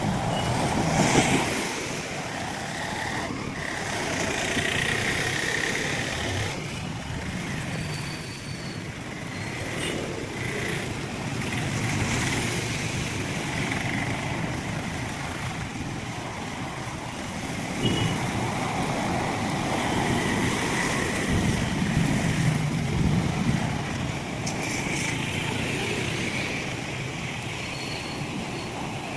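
Road traffic passing in heavy rain: vehicles swelling and fading one after another over a steady hiss of rain and wet road.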